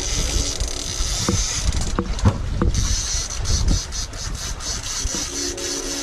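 Wind buffeting the microphone on an open boat, a constant low rumble with hiss, broken by a quick run of light clicks in the middle.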